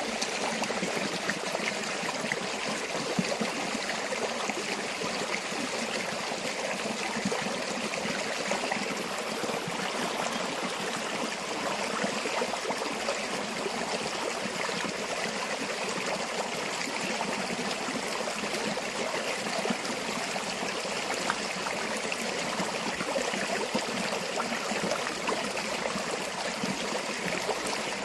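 A stream of water flowing and trickling steadily, an even rushing with fine splashing detail.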